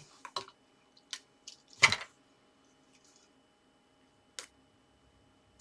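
Paper pieces and craft tools being handled on a work surface: a few scattered clicks and taps, the loudest about two seconds in and one more near the end.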